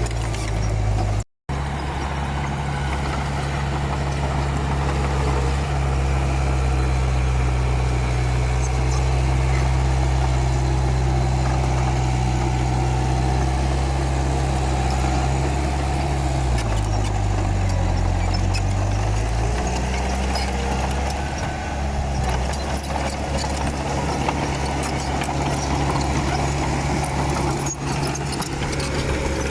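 Komatsu D31P bulldozer's diesel engine running steadily. At about 16 s its note sags lower, as if pulling down under load, then climbs back by about 20 s. The sound cuts out for an instant just over a second in.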